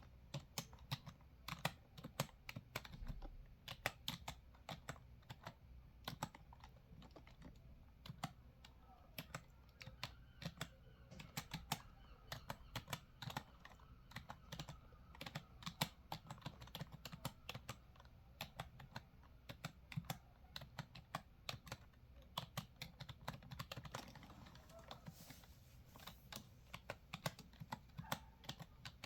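Typing on a computer keyboard: an unbroken, irregular run of quick key clicks, several a second.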